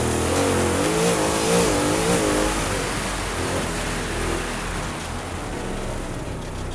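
Off-road trophy truck's engine revving up and down as it is driven, over a steady loud rushing noise.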